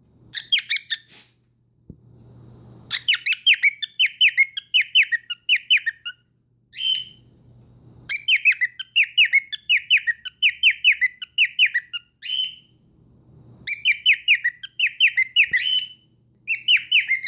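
Pet cockatiel singing: several phrases of quickly repeated chirpy whistled notes, with short pauses between them.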